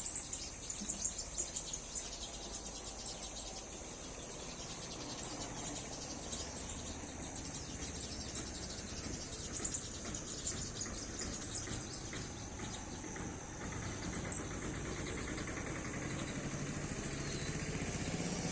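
Garden ambience: a steady, high, pulsing chirr of crickets or other insects, with a few bird chirps and a low rumble that grows louder toward the end.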